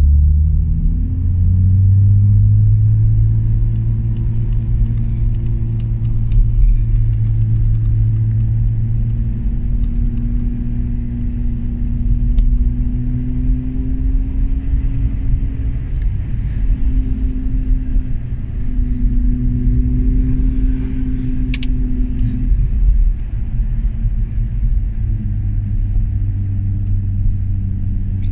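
Car engine heard from inside the cabin, pulling up a steep mountain road over a deep rumble of road noise. The engine note rises in the first two seconds, then holds, shifting pitch about ten seconds in and again a few seconds before the end. There is a single brief tick a little past the middle.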